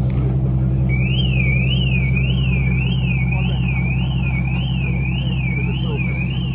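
Car alarm wailing, its pitch sweeping up and down about twice a second, starting about a second in, over a steady low engine idle.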